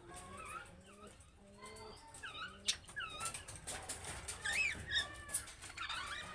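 Budgerigars chirping and chattering: a run of short, quick calls that bend up and down in pitch, thickening with sharp clicks and louder calls in the middle.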